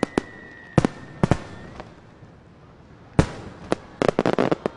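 Aerial firework shells bursting in a series of sharp bangs, ending in a quick run of crackling pops near the end. A thin high whistle fades out about two seconds in.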